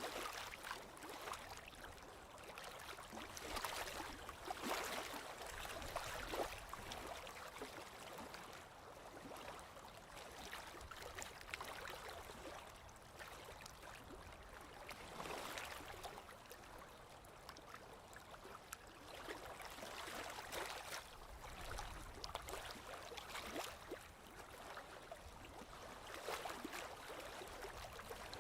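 Small lake waves lapping against the shore, in irregular soft splashes that come and go every few seconds.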